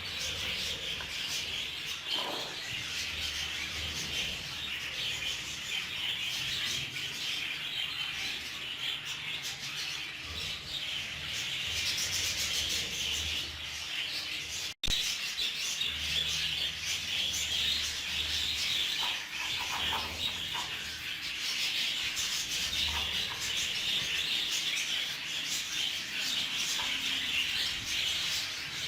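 Budgie seed mix rustling steadily as it is worked in front of an electric fan so the air blows off the empty husks, with birds chirping.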